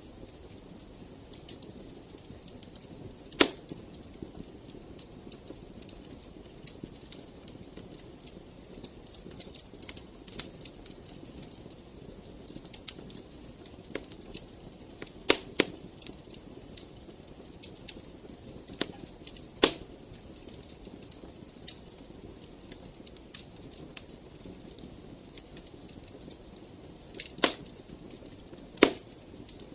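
Wood fire crackling in a fireplace: a soft steady rush of flames under a constant scatter of small ticks, with about five loud, sharp pops from the burning logs.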